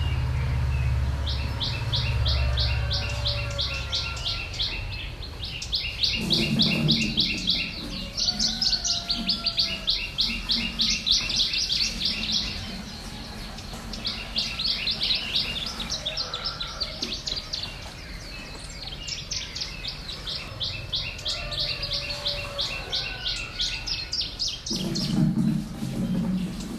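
Bird chirping in rapid, evenly spaced runs of several high chirps a second, each run lasting a few seconds with short pauses between.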